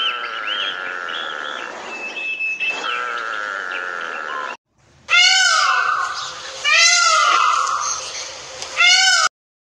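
Male Indian peafowl (peacock) giving three loud calls, each rising then falling in pitch. Before them, for the first four and a half seconds, another animal calls more steadily and higher.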